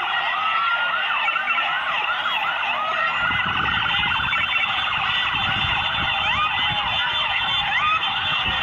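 Several sirens sounding at once in quick rising and falling yelps, overlapping throughout; a low rumble joins in about three seconds in.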